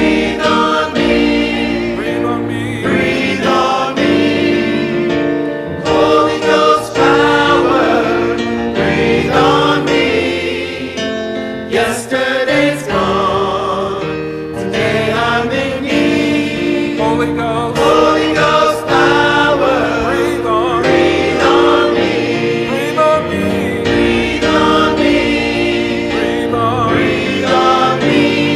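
Gospel choir singing with instrumental accompaniment: voices moving over steady held chords.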